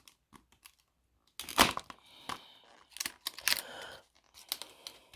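Stiff plastic blister pack being cut and pried at with a blunt blade: irregular crackling, scraping and cracking of the plastic, in uneven bursts with short pauses between.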